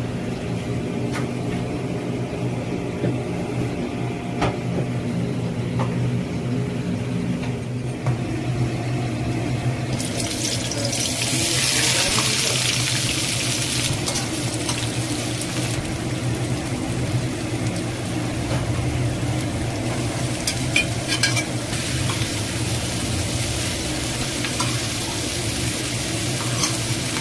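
Sliced onions frying in oil in a steel kadhai, sizzling as they are stirred with a perforated metal spatula; the sizzle swells loudest for several seconds in the middle. A steady low hum runs underneath, with a few sharp clinks.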